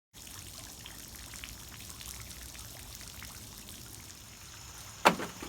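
Faint steady background patter like light rain or trickling water, then one sharp knock near the end.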